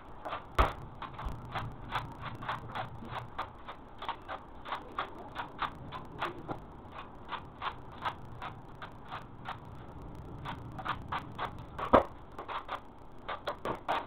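A hand tool at work, making a quick series of short, light clicks or taps, about three a second. There is a louder knock about half a second in and another near the end.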